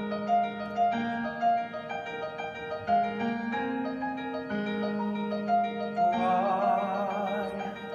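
Piano introduction: held low chords under a higher note struck again and again. About six seconds in, a singer's voice enters on a held note with vibrato.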